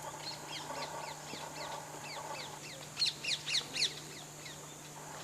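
A bird calling in a rapid series of short falling notes, about three or four a second, with a louder burst about three seconds in.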